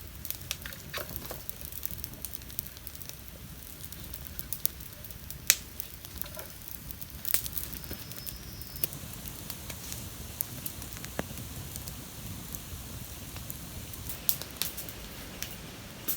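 Campfire crackling: irregular sharp pops over a steady hiss.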